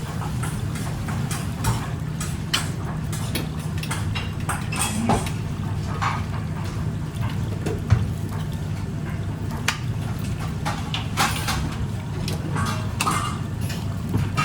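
Utensils and dishes clinking and clattering, in short irregular knocks over a steady low hum.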